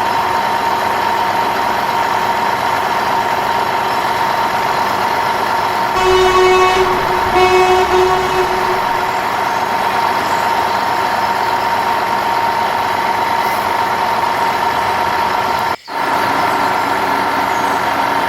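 Truck engine running steadily, with a horn honked twice, about six and seven and a half seconds in. The sound cuts out for a moment near the end.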